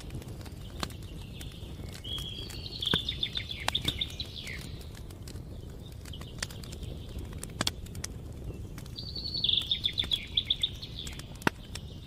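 Campfire crackling, with irregular sharp pops over a low steady rush. A songbird sings two fast trilled phrases over it, one about two seconds in and another about nine seconds in.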